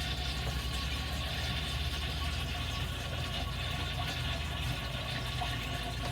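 Water running steadily into an RV toilet bowl through a newly replaced flush valve, with a low hum underneath.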